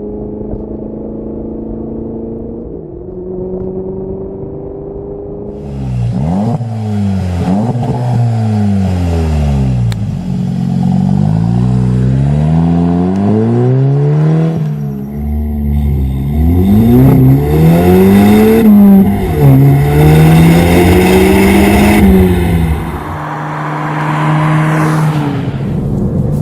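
VW Golf 7 GTI's turbocharged 2.0-litre four-cylinder through a Wolf-Power by Corsa RSC cat-back exhaust, idling steadily, then revved repeatedly from about six seconds in, the pitch climbing and falling with each blip, before dropping back to a steady idle near the end.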